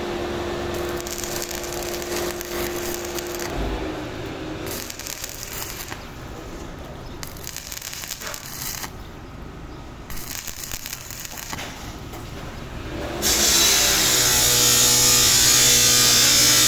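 Metalworking noise: a steady hum, then an uneven crackling hiss. About thirteen seconds in, a much louder steady hiss with a low hum sets in.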